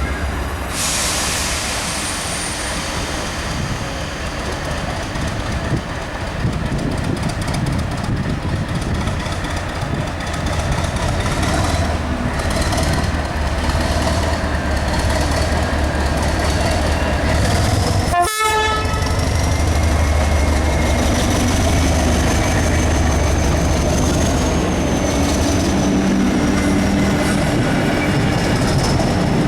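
NIR 80 Class diesel-electric multiple unit running, with a steady low engine rumble and thin high wheel squeal. There is a sudden short break about two-thirds of the way through.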